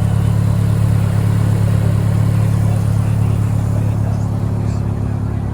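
A car engine idling steadily nearby: an even, unchanging low hum.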